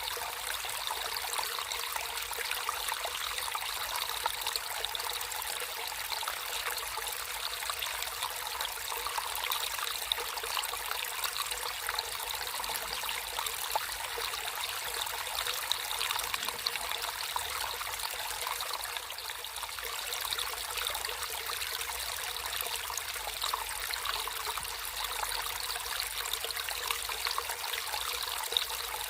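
Small stream of water flowing and trickling steadily, a continuous bright babble with fine splashing detail.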